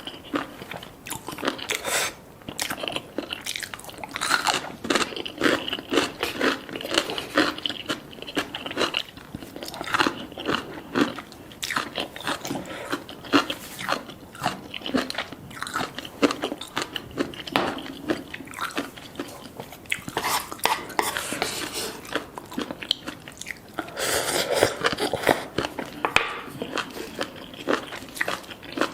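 Crunchy chewing: a long, irregular run of bites and crunches.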